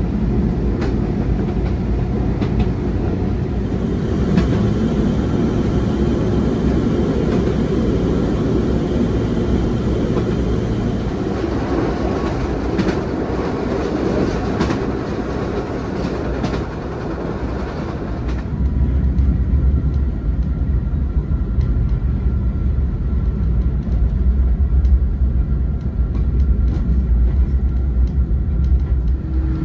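Interior running noise of a vintage railcar: a steady rumble and rattle with scattered clicks of the wheels over rail joints. About two-thirds of the way in, the rattle thins out and a deep steady drone takes over.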